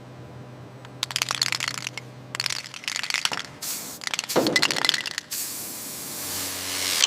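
High-pressure water blasting against steel: crackling, spattering bursts, then from about five seconds in a steady hiss of spray that grows louder near the end.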